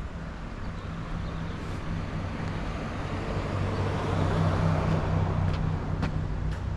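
A motor vehicle driving past, its engine hum and tyre noise swelling to a peak about four to five seconds in and then easing off. A few sharp clicks come near the end.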